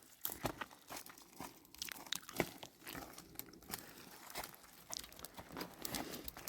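Irregular crunching and crackling, a quick run of sharp snaps and rustles.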